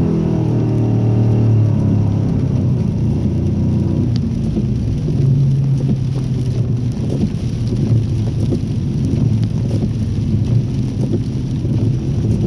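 Ford Mustang engine, its revs falling away at the start, then running lower and revving up again about five seconds in, over a constant low rumble and hiss.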